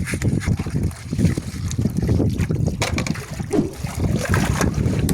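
Hand-washing dishes: water sloshing and splashing in a basin, with dishes and utensils knocking and clinking many times.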